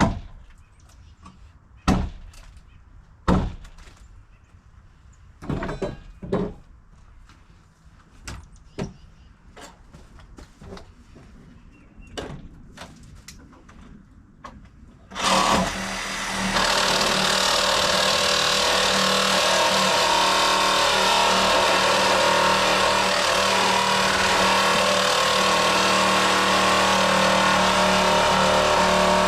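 Scattered knocks and clatters, then a power tool switches on abruptly about halfway through, runs steadily for about fourteen seconds and stops.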